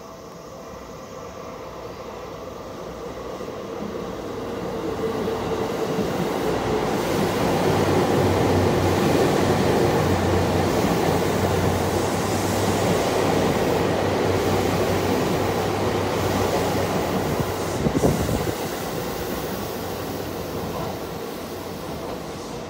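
Seibu 10000-series Red Arrow limited express electric train passing through a station without stopping. The running noise swells as it approaches, stays loud for several seconds as the cars go by, then eases off. There is one sharp click late on.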